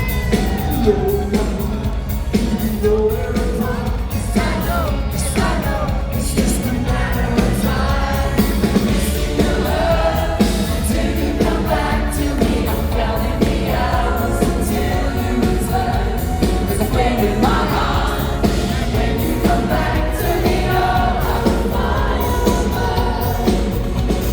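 Live pop song: a male lead vocal sung over a full band with a steady beat.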